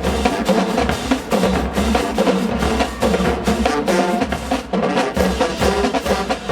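Marching band drumline playing a dense, fast cadence of rapid drum hits.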